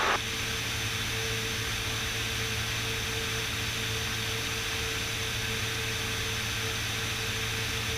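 Steady in-flight cockpit drone of a Beechcraft Bonanza S35, its engine and airflow heard through the headset intercom as an even hiss with a faint steady hum.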